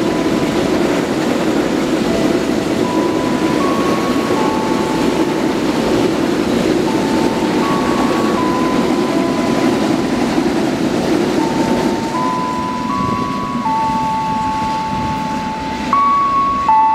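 Long container freight train rolling through on the line: a steady rumble of the wagons over the track, thinning after about twelve seconds as the last flatcars go by. Through it run held high tones that step from pitch to pitch, louder near the end.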